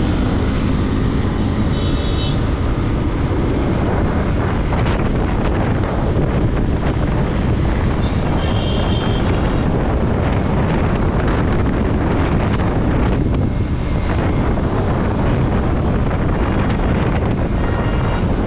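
Wind buffeting the microphone over a motorcycle's running engine and road noise while riding, steady throughout. Two brief high tones sound about two and nine seconds in.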